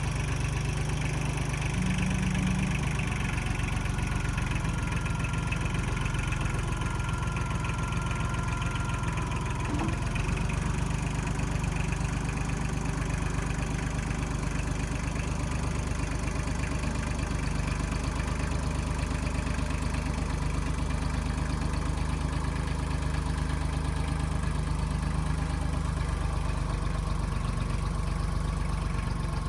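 Diesel engine of a 1995 Kubota backhoe running steadily, with a faint high whine for a few seconds and a light knock about ten seconds in.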